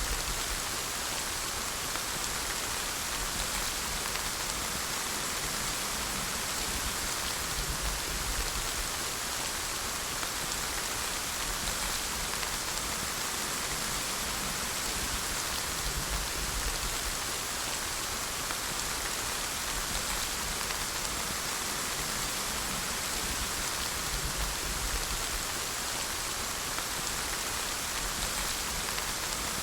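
Steady rain falling: an even, dense hiss of drops on a surface, with a faint low rumble coming and going underneath.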